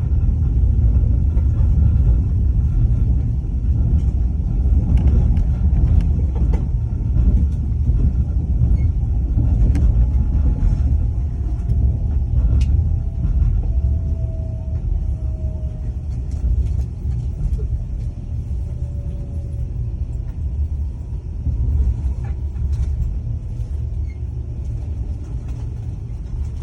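Moving train's steady low rumble, with scattered faint clicks and a faint whine that slowly falls in pitch about halfway through.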